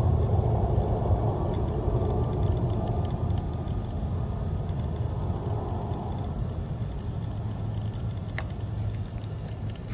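Aircraft engine rumble, slowly fading as the plane moves away.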